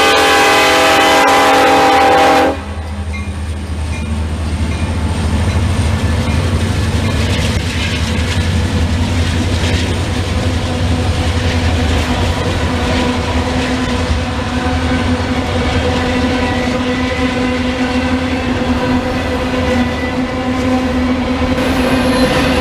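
Diesel locomotive air horn sounding a chord that cuts off about two and a half seconds in, then a train rolling past with a steady engine rumble and wheel noise on the rails.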